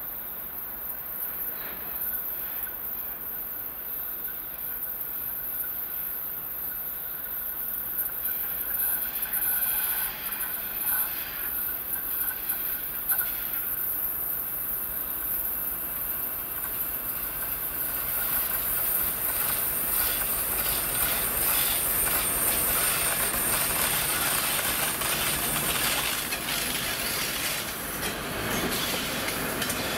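A TEP70 diesel passenger locomotive and its train approach and pass close by as they arrive at a station. The engine noise grows louder. In the second half the wheels click over the rail joints and a steady high wheel squeal sounds as the carriages roll past.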